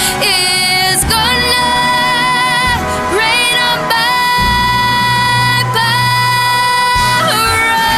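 Female singer holding long sustained notes over a backing track, with sharp hits about a second in and near the end.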